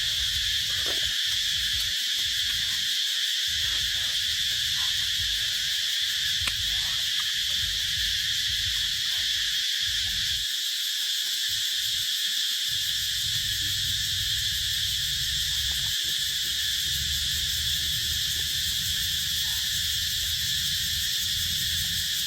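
Steady, unbroken insect chorus, a high drone of cicadas or crickets, over a low rumble that comes and goes.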